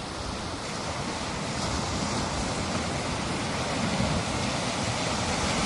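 Ocean surf washing on a beach: a steady rush of waves that swells a little in the second half.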